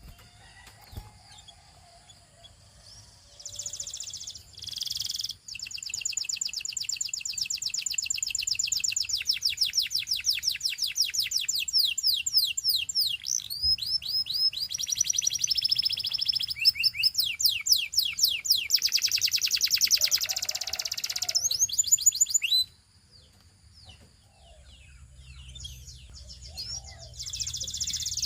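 Russian canary singing: long high-pitched phrases of fast repeated notes and trills, with a break for several seconds before it starts again near the end.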